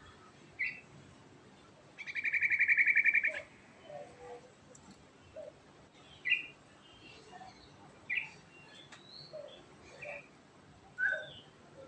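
Yellow-vented bulbul (trucukan) singing: a loud, fast trill lasting about a second and a half, about two seconds in, then short separate chirps and whistled notes every second or two.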